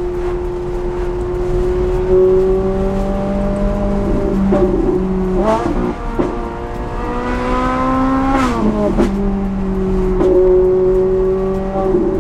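Straight-piped Ferrari 458 Italia's 4.5-litre V8 running at steady revs. It changes pitch a few times in the middle, revs up with a rising note about seven seconds in, then drops back and settles at steady revs.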